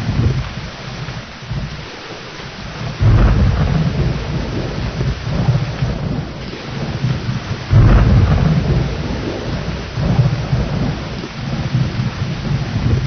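Thunderstorm: steady rain with rolling thunder. A low rumble breaks in suddenly about three seconds in and another near eight seconds, each rolling on for a few seconds over the rain.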